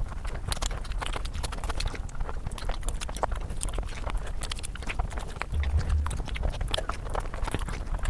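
Close-miked eating sounds: chewing and wet mouth smacks of a person eating mutton curry, many quick irregular clicks.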